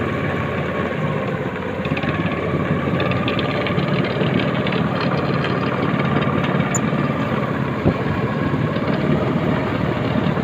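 A small engine running steadily, its pitch wavering slightly, with one sharp knock about eight seconds in.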